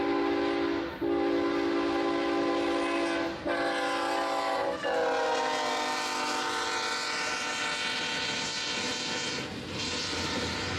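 Diesel freight locomotive's multi-chime air horn blowing separate blasts, long, long, short, then long, the grade-crossing signal. During the last blast the chord slides down in pitch as the locomotive passes, then fades, leaving the rumble and clickety-clack of the intermodal train rolling by.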